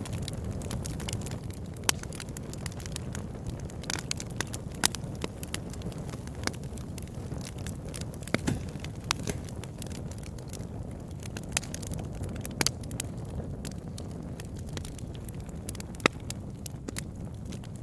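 Campfire burning with a steady low rush and frequent irregular crackles and pops from the burning wood, a few of them sharp and loud.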